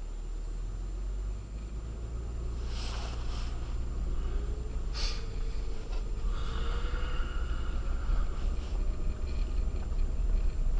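Acura MDX driving on a snow-covered road on Sumitomo Ice Edge winter tyres: a steady low rumble of engine and tyres, with a faint tone that rises slowly and then eases off. A few short rustling noises come about three and five seconds in.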